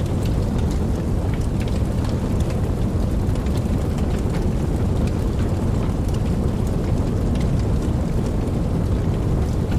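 Steady rain with scattered sharp drop ticks over a deep, continuous low rumble.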